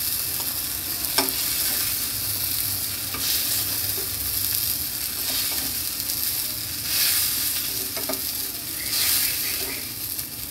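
Whole tomatoes sizzling steadily in hot oil in a frying pan, with a few light clicks of a spoon against the dishes as the tomatoes are lifted out.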